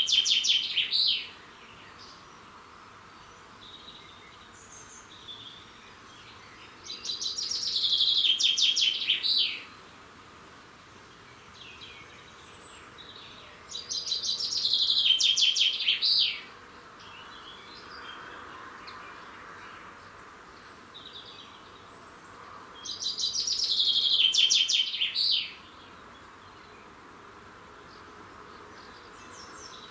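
A songbird repeating one short song of rapid notes, each about two and a half seconds long and ending in a flourish, roughly every eight seconds. Three full songs come through, with the tail of another right at the start. Fainter chirps of other birds fill the gaps.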